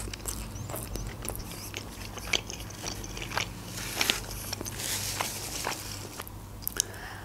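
Close-miked mouth sounds of chewing food: wet clicks and light crunches at an irregular pace, a few a second, thinning out near the end.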